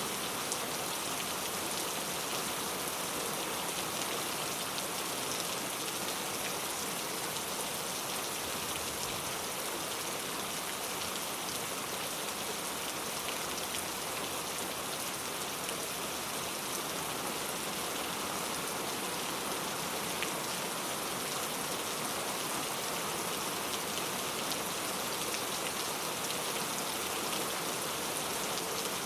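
Steady rainfall, an even hiss with fine scattered drop ticks.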